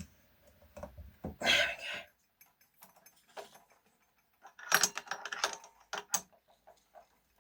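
Light wooden clicks and knocks from a plywood cam-driven wave mechanism being handled and tried, with a short scraping rush about a second and a half in and a quick clatter of clicks about five seconds in.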